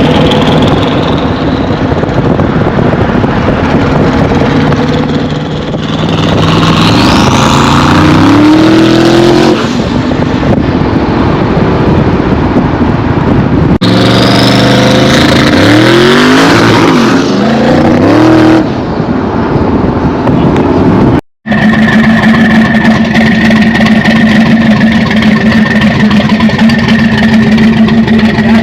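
Twin-turbocharged 400 small-block V8 of a 1985 Chevy C10 under hard acceleration twice, its pitch climbing in steps with a high whistle rising over it. After a brief cut it settles into a steady drone.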